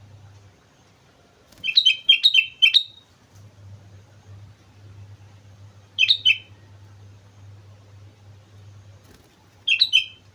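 Sooty-headed bulbul (kutilang) singing in short phrases of quick chirping notes: a run of about five notes, then two shorter phrases of two or three notes, with a faint steady low hum underneath.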